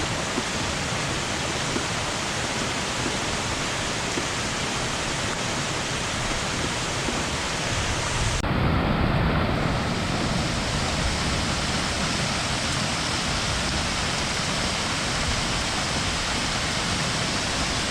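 Steady rushing noise of water, with an abrupt change in its sound about eight and a half seconds in, briefly louder and deeper just after.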